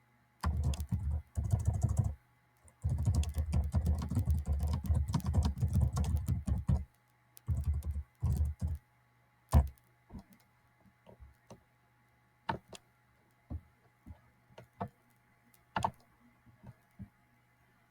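Typing on a laptop keyboard: two quick runs of keystrokes over the first seven seconds, then scattered single key presses and clicks, one louder than the rest about ten seconds in.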